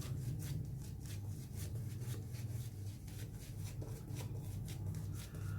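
Synthetic-knot shaving brush working lather on the face in quick, repeated brushy strokes, about three a second, over a steady low hum.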